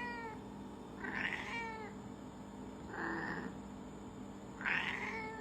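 Domestic cat meowing several times, short calls that fall in pitch, about one every second or two.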